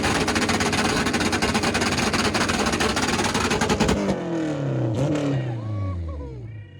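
Car engine held at high revs with a rapid crackle for about four seconds, then the revs fall away, the pitch sliding down toward idle.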